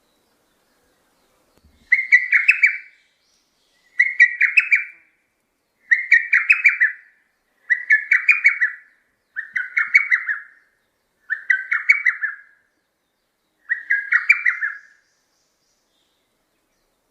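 A bird calling: the same short phrase of rapid notes repeated seven times, about every two seconds.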